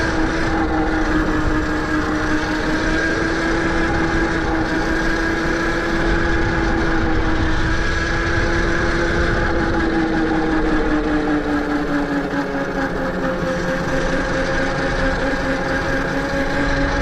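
Electric dirt bike's motor whining steadily while riding, over a constant rush of wind and tyre noise. The whine eases a little lower in pitch about two-thirds of the way through, as the bike slows slightly.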